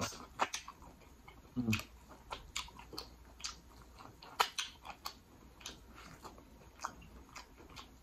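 Close-miked biting and chewing of buttered corn on the cob: irregular wet smacks and clicks of mouth and kernels, with one brief low hum about two seconds in.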